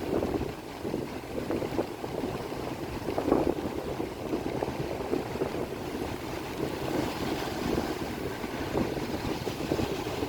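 Wind buffeting the microphone: an uneven rumbling rush that swells and eases in gusts.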